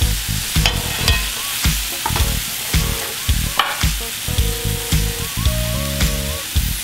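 Shredded spaghetti squash sizzling in butter in a hot skillet as it is pulled in and tossed with metal tongs. Background music with a steady beat plays over it.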